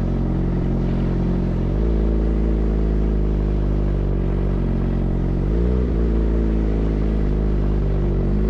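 Suzuki GSX-R motorcycle engine running through an M4 full-system exhaust, holding a steady note that shifts lower about two seconds in, then dips briefly and comes back up around six seconds in.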